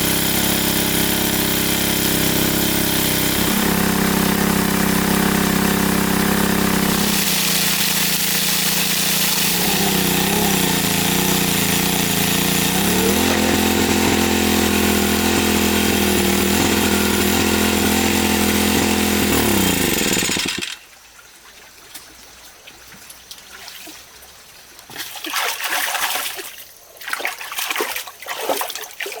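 A small engine running steadily, its pitch shifting a few times, which stops abruptly about 20 seconds in. After that comes quieter water splashing and trickling.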